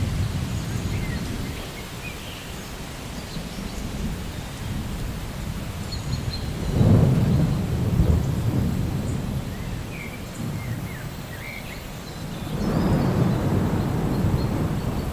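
Steady rain in a thunderstorm, with low rolling thunder rumbles swelling twice, about seven seconds in and again near the end.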